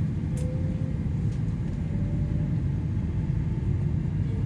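Cabin noise of a Vibrant Express high-speed train moving off slowly along a station platform: a steady low rumble with faint, brief whines above it.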